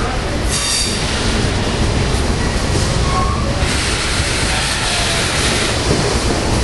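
Amtrak Coast Starlight passenger train: a steady rumble and rushing noise with a few brief, faint squeals. The hiss grows brighter about halfway through.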